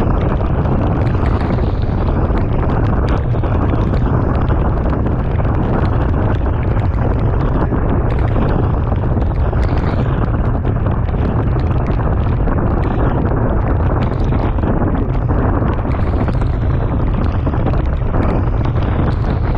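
Steady wind rush buffeting the microphone of a camera on a moving bicycle, loudest in the low rumble, with road and tyre noise underneath.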